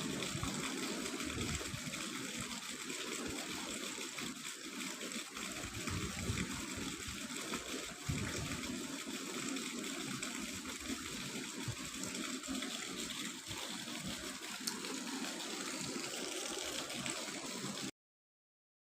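Steady rushing of flowing water, cutting off suddenly near the end.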